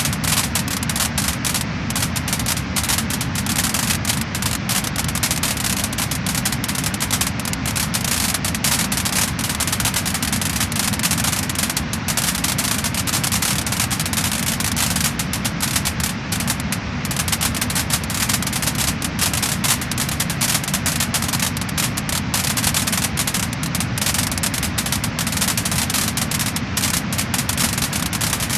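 Wood-burning fire crackling and popping in a dense, unbroken stream of small cracks over a steady hiss.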